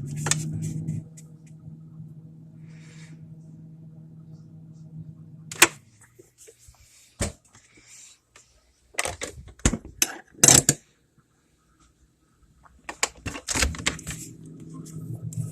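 Danby refrigerator running with a steady low hum, now working again after its evaporator fan was replaced. The hum stops about six seconds in, a few sharp clicks and knocks follow, and the hum comes back near the end with more hiss.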